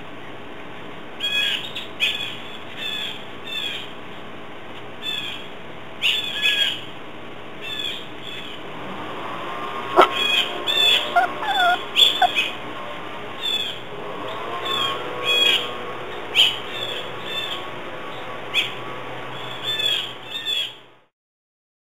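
A bird chirping over and over: short, high chirps, often in quick pairs or clusters, over a steady low background hum. The sound cuts off abruptly near the end.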